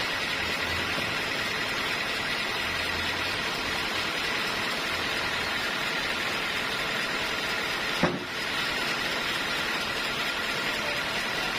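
Sawmill machinery running steadily, with one sharp knock about eight seconds in.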